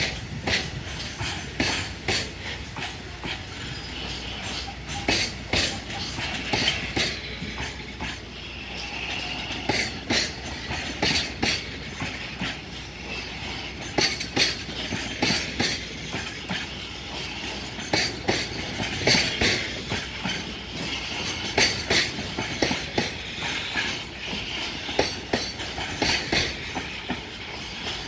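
Container flatcars of a long freight train rolling past at speed: a steady rolling rumble with frequent sharp clacks as the wheels cross rail joints, and a higher metallic hiss from the wheels that swells now and then.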